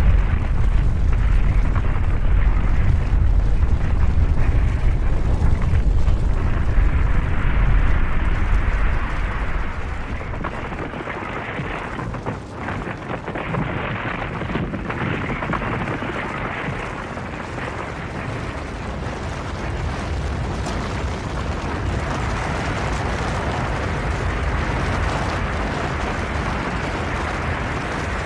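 Snow avalanche: a low, heavy rumble with a rushing noise, strongest for the first nine seconds or so, then easing to a steadier, lighter rush.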